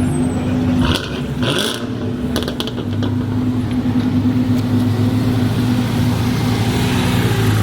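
A car engine running steadily, with a brief dip in loudness about a second in and a few sharp clicks about two and a half seconds in.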